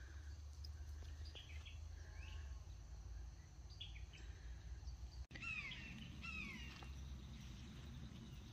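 Wild songbirds calling: a scatter of short high chirps, then, after a brief dropout about five seconds in, two louder calls that slide downward in pitch. A steady low rumble runs underneath.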